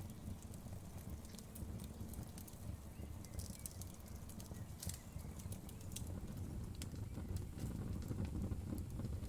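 Wood fire crackling: frequent irregular small pops and snaps over a steady low rumble of the flames.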